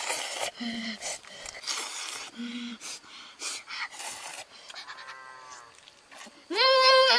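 Several short rustling, hissing bursts, then near the end a loud, drawn-out voice-like call that holds one pitch and then falls away, like a bleat or a long cry.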